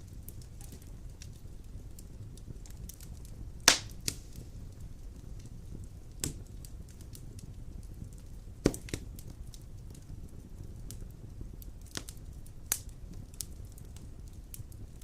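Large wood logs burning in a fireplace: a steady low rumble of flame with scattered sharp crackles and pops, the loudest about four and nine seconds in.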